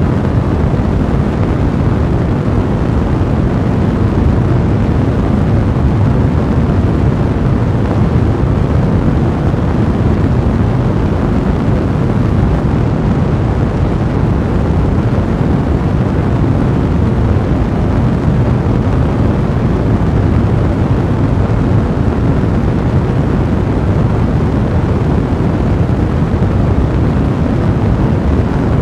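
Wood fire burning in a fireplace: a steady, low, dense rush with constant fine crackling.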